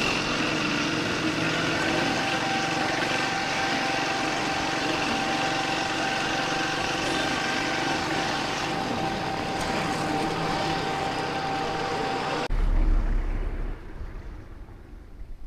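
Triumph Speed 400's single-cylinder engine running steadily under a haze of noise, with a steady whine. About twelve seconds in the sound cuts off suddenly to a short low rumble, then goes much quieter.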